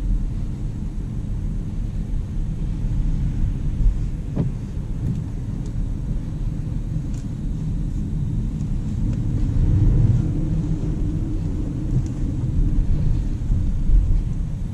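Low, steady rumble of road and tyre noise from a 2019 Jaguar I-Pace electric SUV on the move, with no engine note. A brief knock comes about four and a half seconds in.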